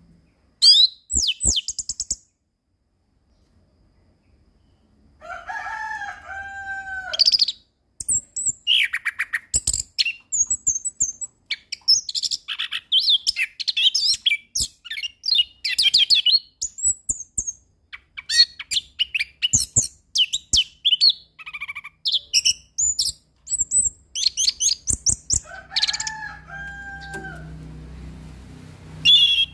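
Orange-headed thrush (anis kembang) singing a long, varied song of rapid high warbling and chattering phrases, broken by short pauses. Twice a lower, slurred two-note whistle comes in among them.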